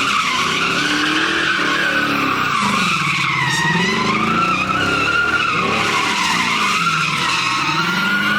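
A car's tyres squealing continuously over its revving engine while it spins or drifts, the pitch rising and falling in slow waves every couple of seconds.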